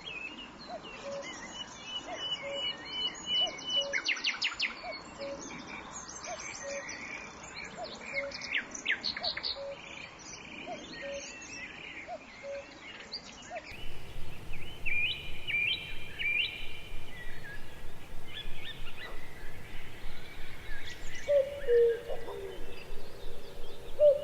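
Wild birds chirping and trilling over a steady outdoor background, with a short low note repeating evenly about every three-quarters of a second through the first half. The sound changes abruptly about fourteen seconds in, and the chirping carries on.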